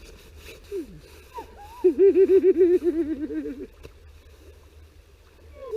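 A woman's voice, overcome with emotion, breaking into a quick pulsing run of laughing or sobbing breaths for about two seconds, with a stream running faintly underneath.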